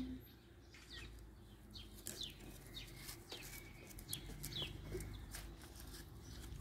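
Faint chirping of small birds: short, quick chirps that fall in pitch, repeating every half second or so over a low, steady hum.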